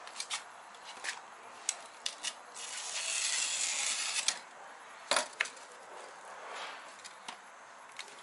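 Insulation board being cut to size by hand: a long scraping cut of about a second and a half a few seconds in, and a shorter, fainter one later, among scattered clicks and knocks.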